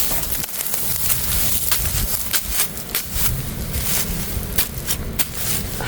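Close crackling and rustling of soil and plant stems while wild greens are dug up by their roots, in many irregular sharp crackles, over a low rumble of wind on the microphone.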